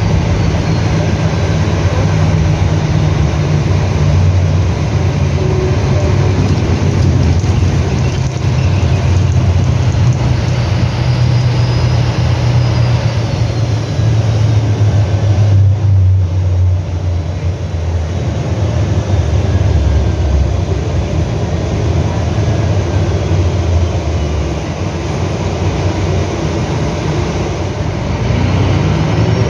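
Scania F360HA bus's diesel engine running steadily under way, with a faint high whine that rises and falls in pitch several times.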